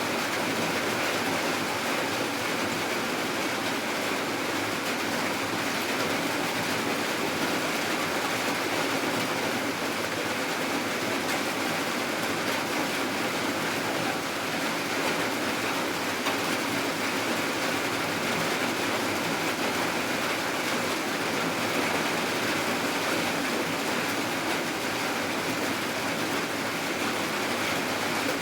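Steady rain falling at night, an even unbroken hiss with no change in strength.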